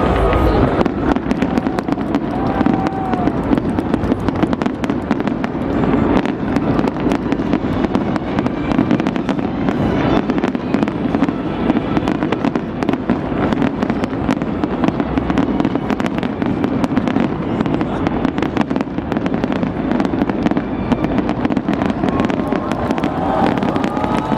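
Fireworks going off in rapid, unbroken succession: dense crackling and popping bangs, with people's voices underneath.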